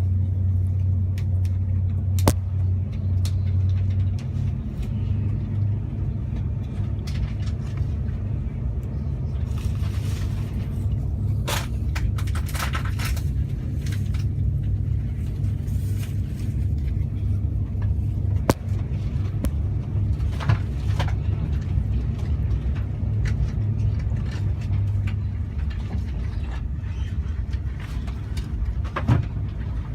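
Train running, heard from on board: a steady low rumble with a few sharp knocks and brief hisses along the way.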